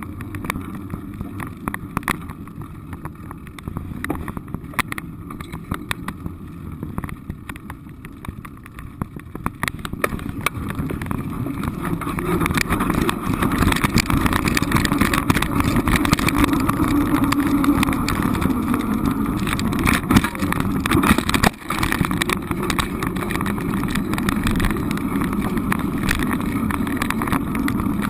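A moving vehicle's steady running and road noise, with scattered clicks and knocks in the first half; it grows louder about twelve seconds in and stays loud, with a brief drop a little after twenty seconds.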